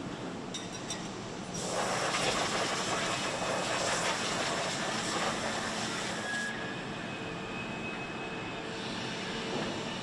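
Engine-plant machinery running steadily, with a louder hissing rush of noise from about a second and a half in until about six and a half seconds, then the steady machine hum again.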